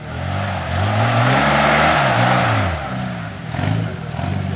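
Off-road 4x4 race vehicle's engine revving hard, its pitch rising and falling several times as the throttle is worked, under a loud rushing noise that peaks about a second or two in.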